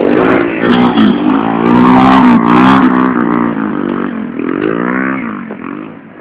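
110cc four-stroke single-cylinder motorcycles racing, engines revving up and dropping in pitch over and over with throttle and gear changes. The sound fades toward the end as the bikes move away.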